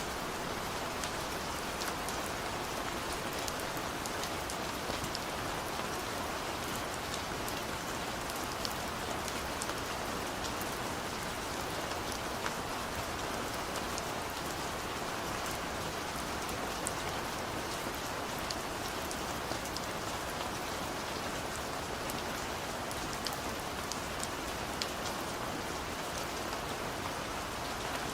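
Heavy rain pouring steadily: a dense, even hiss of rainfall with many scattered sharp drop ticks.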